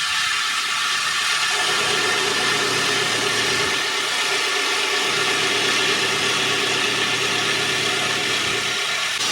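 Heavy machinery running steadily: an engine drone under a strong, even hiss, with no breaks or impacts.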